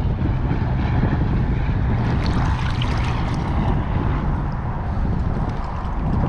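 Wind buffeting the microphone out on open water, a steady low rumble with a stronger spell of hiss a couple of seconds in.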